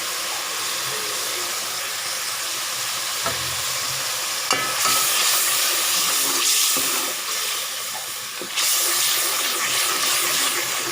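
Onion-tomato masala sizzling in a cooking pot as it is stirred, after ground coriander has been added. The sizzle swells louder about five seconds in and again near the end, with a spoon knocking against the pot just before the first swell.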